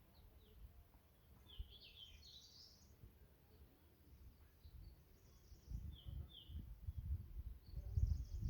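Small birds chirping in short, high calls, a cluster about two seconds in and a few more later. A low wind rumble on the microphone grows through the second half and becomes the loudest sound.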